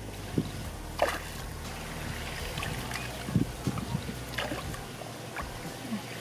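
Shallow water splashing and sloshing as hands work through a flooded rice field, with a few sharper splashes at uneven intervals over a low steady hum.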